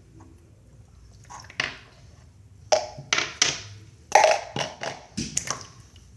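Slime being squeezed and pressed by hand, making a run of sharp, irregular pops and clicks that start about a second in.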